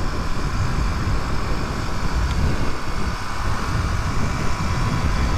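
Suzuki DR250S single-cylinder engine running steadily under way, with constant wind rush on the microphone.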